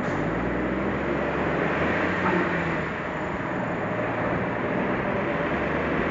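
Suzuki Jimny driving at a steady pace: its engine running under tyre and road noise, fairly even throughout.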